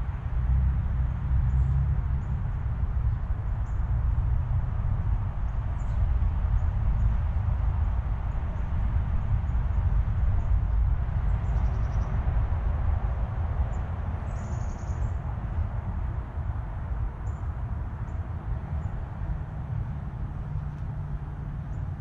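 Small birds giving faint, short, high-pitched chirps every few seconds, with one louder call around fourteen seconds in, over a steady low rumble.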